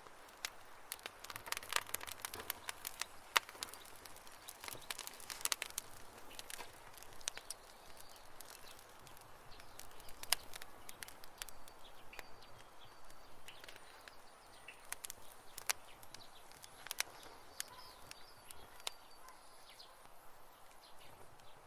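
Wood campfire crackling, with irregular sharp pops and snaps over a soft hiss; the pops come thickest in the first few seconds.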